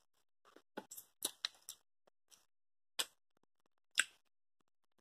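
A person chewing food, with short wet mouth clicks and smacks: a quick cluster of about five about a second in, then single ones at about three and four seconds.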